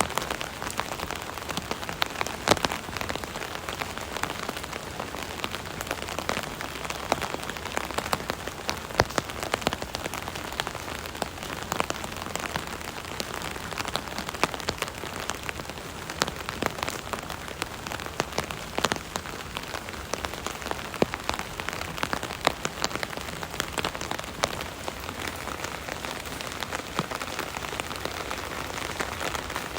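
Rain pattering on an umbrella canopy overhead, a steady hiss of rain dotted with many sharp, irregular drop ticks.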